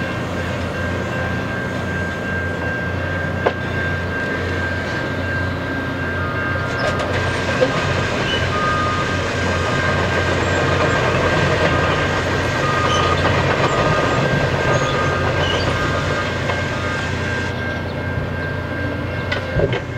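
Work train of gondola cars rolling past on the rails: a steady rumble of wheels on track with a thin, steady high whine over it and a few sharp clanks.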